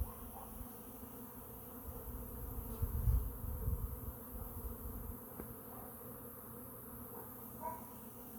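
Swarm of honeybees flying around a hive entrance: a steady, many-wing buzzing hum of heavy foraging traffic. There is a brief low rumble about three seconds in.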